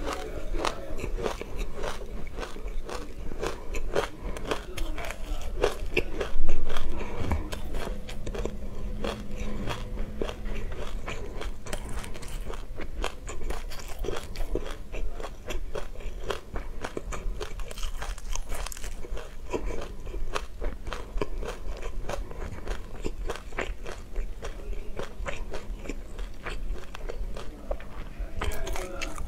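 Close-up crunching and chewing of a mouthful of sesame seeds, a dense run of fine crackling clicks, with a ceramic spoon scooping through the seed-filled glass jar. One louder knock about six and a half seconds in.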